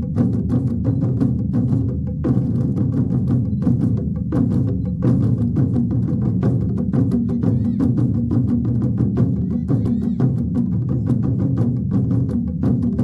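Ensemble of large drums played in a continuous, fast stream of strokes, with a deep, heavy low end.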